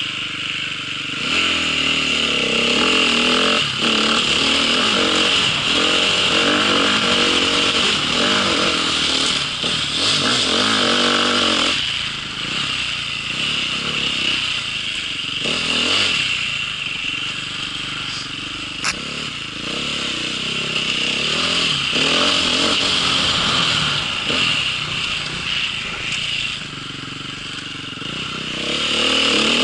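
A vehicle's engine running under way, its revs rising and falling again and again over a steady high hiss, with one sharp click about two-thirds of the way through.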